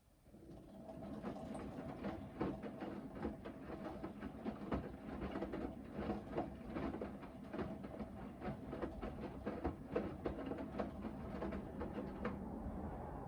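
Hoover VHD 9163 ZI front-loading washing machine in its main wash: the drum starts turning about half a second in and the wet laundry tumbles with a run of irregular clunks and sloshing, easing off near the end as the drum slows for its pause.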